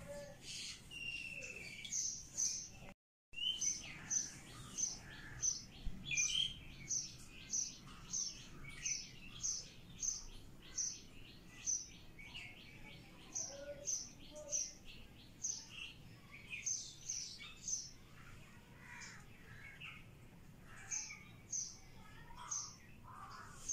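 Birds chirping, one repeating a short high chirp about twice a second among other twittering calls. A brief cut to silence about three seconds in.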